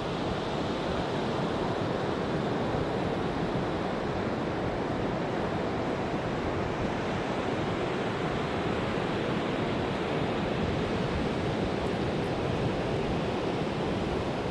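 Ocean surf washing on a beach: a continuous, steady rush of waves.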